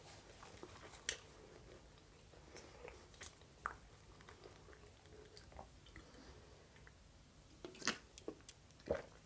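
Faint close-up chewing and mouth clicks from eating bread. Near the end come two louder sharp clicks as an aluminium drink can is handled next to the microphone.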